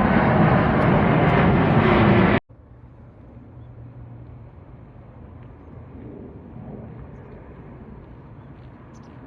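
Loud roar of an airliner's engines during takeoff, cut off abruptly about two and a half seconds in. What follows is a much quieter outdoor background with a faint low hum and a few faint clicks.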